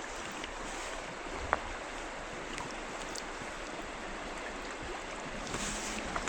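Steady rushing of river water, with a few faint clicks from handling things close by.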